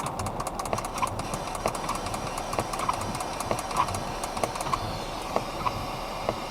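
PSB-11 ghost box sweeping the FM band on one channel with its noise gate turned down: a rapid run of clicks with short chopped blips of radio and static.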